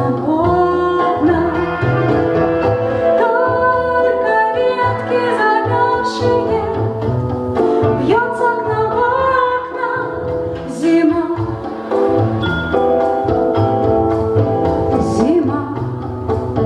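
A song: a voice singing a melody over an instrumental backing with a steady low beat.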